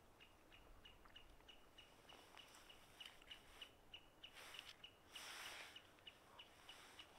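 A small bird calling, a faint, steady series of short high chirps at about three a second. A little past the middle come two brief noisy bursts.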